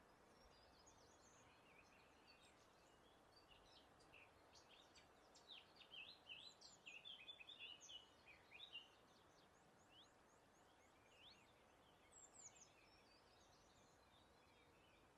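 Faint birdsong: several birds chirping and trilling with quick sweeping notes, busiest about five to nine seconds in, over a faint steady hiss of outdoor air.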